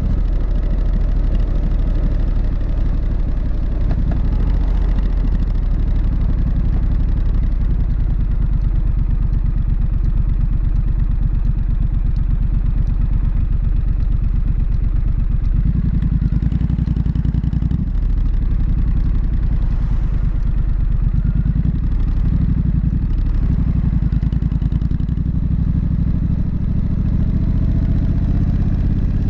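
Exhaust of a Triumph Street Scrambler's parallel-twin engine running steadily, its pitch rising near the end as the engine picks up revs.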